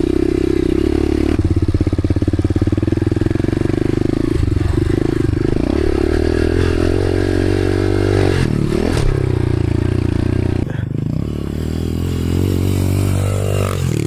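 Dirt bike engine running hard under throttle, its pitch rising and falling as the rider works the throttle around the track. About eleven seconds in the engine note drops off as the throttle is closed, then builds again near the end.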